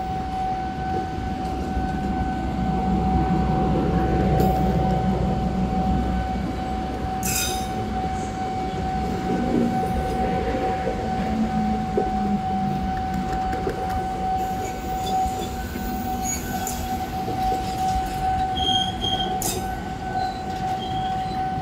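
Railway passenger coaches rolling slowly past: a low rumble of wheels on rail with a few sharp clicks, and a steady high tone held throughout.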